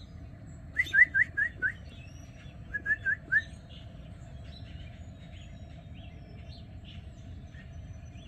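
A bird chirping in two quick runs of short calls, about five and then four notes, with fainter chirps later, over a steady low hum.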